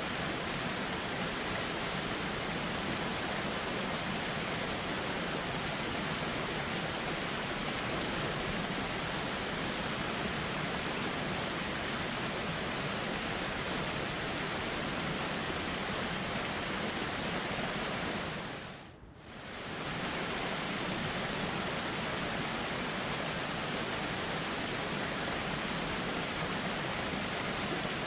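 Steady rushing of a flowing river, an even hiss across all pitches. About nineteen seconds in it fades out for a moment and comes straight back.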